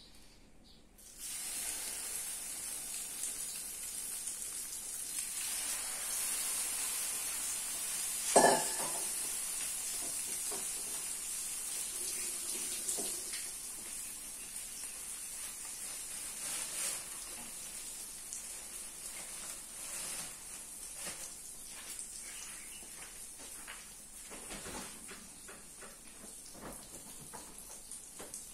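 Egg-dipped bread slices for French toast sizzling in a hot frying pan. The sizzle starts suddenly about a second in as they go into the pan, then slowly eases, with scattered crackles. A single sharp knock comes about eight seconds in.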